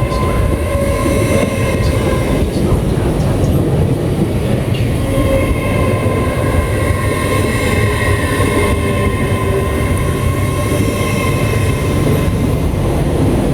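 Train running through a station platform: a steady low rumble with high whining tones over it that drift slightly in pitch.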